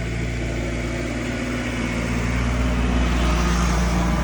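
A motor vehicle's engine running steadily, a little louder in the second half.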